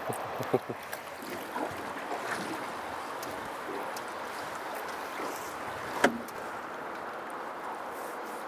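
Steady rush of river water around a fishing boat, with a few light knocks in the first second and one sharper knock about six seconds in.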